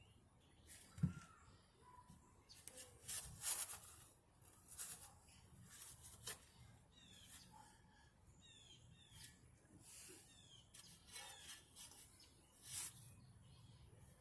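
Shovel digging dirt: irregular scrapes and knocks, with a dull thud about a second in and a louder run of scraping a few seconds later.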